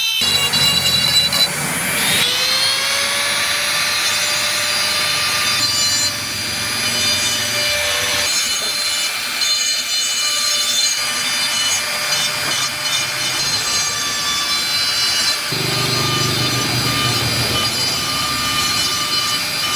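A power carving tool whining as it grinds and sands wood, in several stretches that change abruptly. About two seconds in, the motor spins up to speed.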